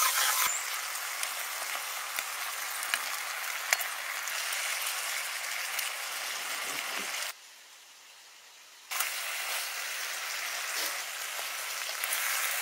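Oil and chili-garlic sauce sizzling in a hot pan as fried chicken pieces are stirred and tossed in it, with a few sharp clicks of the utensils against the pan. The sizzle cuts out for about a second and a half a little past the middle, then resumes.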